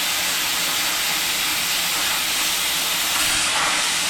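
Plasma cutter arc cutting steel plate: a steady, loud hiss.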